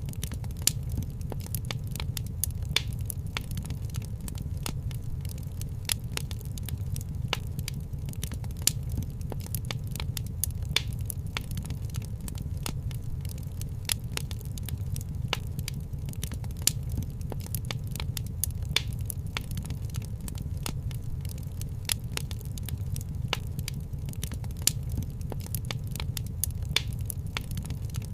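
Wood fire crackling in a fireplace: dense irregular pops and crackles, a few sharper ones every couple of seconds, over a steady low rumble.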